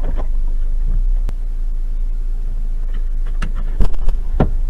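Steady low rumble of a stopped car heard from its dashcam inside the cabin, with a few short knocks about three and a half to four and a half seconds in.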